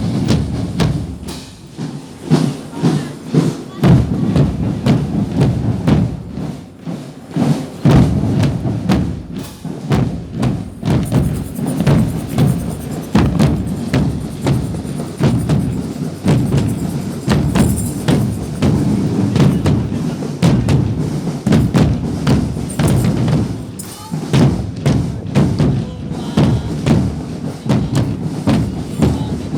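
Music with a steady beat of drums and percussion.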